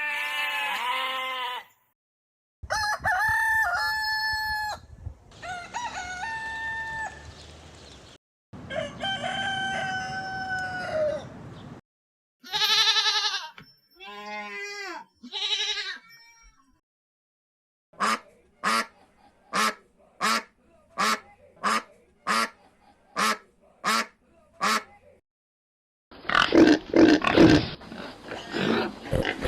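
A series of farm animal calls, mostly poultry, with a rooster crowing among them. Partway through comes a run of about a dozen short calls evenly spaced about two thirds of a second apart, and near the end a dense, noisy stretch of calling.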